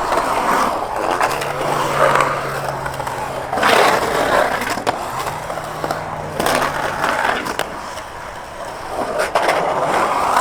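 Skateboard wheels rolling on concrete, the rumble swelling and fading as the board rides, with a sharp, loud hit or scrape about four seconds in and a few clicks.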